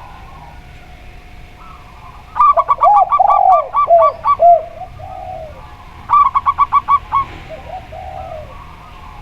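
Zebra dove (perkutut) and spotted dove (tekukur) cooing together: two rapid runs of short, high coos, one about two seconds in and another about six seconds in, over lower, rounder coos. Faint bird calls run underneath.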